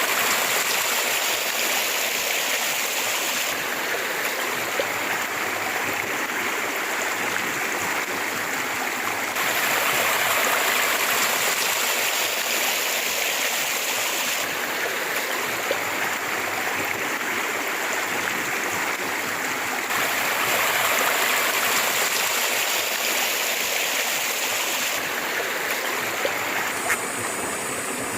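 River water flowing: a continuous rushing that steps a little louder or quieter every five or six seconds.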